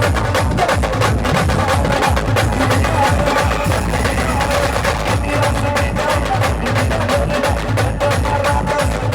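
Maharashtrian wedding-style band playing an Adivasi dance song: a fast, dense drum beat with a heavy bass pulse under a steady melody line.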